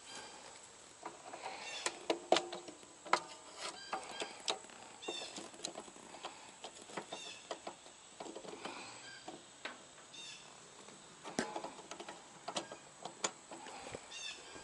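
Irregular clicks, knocks and small metallic clinks of tools and parts being handled, a few of them ringing briefly.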